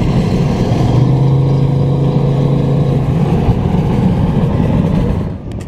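Car engine running loudly with a deep rumble, held at a steady pitch for about two seconds near the start; the sound cuts off abruptly near the end.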